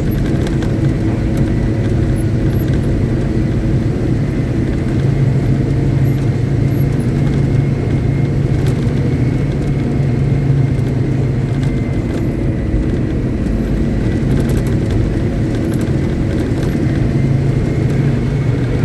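Caterpillar 777D haul truck's diesel engine running steadily at a constant speed, a deep even drone with no revving.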